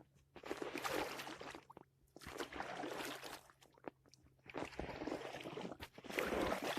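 Kayak paddle strokes in the water: three long splashing swishes, one about every two seconds.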